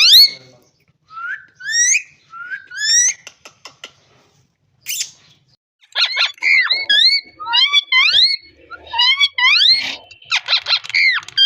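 A parrot whistling and calling: short rising, swooping whistles with some clicks, a pause of about two seconds partway through, then a fast run of whistles from about six seconds in.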